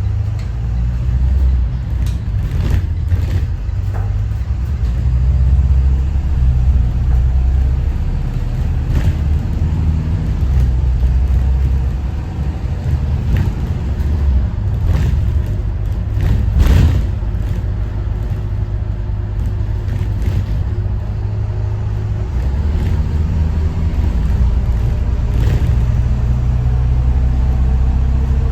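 Detroit diesel engine of a 2021 Thomas Saf-T-Liner C2 school bus running as the bus drives, a low rumble that rises and eases. Scattered clicks and knocks are heard over it, the loudest a little past the middle.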